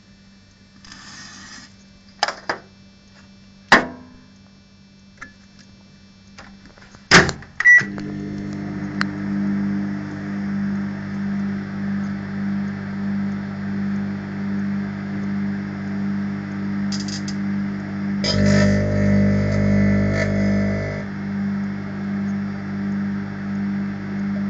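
Microwave oven being set going: a few clicks and knocks from the door and buttons, then a short beep and a steady pulsing hum as the magnetron runs. For about three seconds a louder buzz sits on top of the hum as plasma forms inside the oven.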